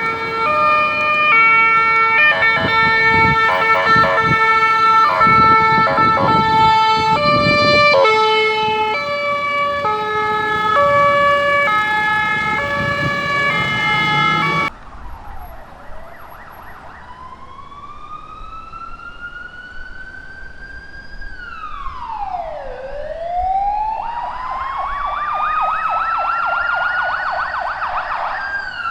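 A short melodic tune with a beat plays first, and about halfway through an electronic ambulance siren takes over, wailing: a tone rising slowly over several seconds and then dropping quickly, twice, with a fast warble laid over the second rise.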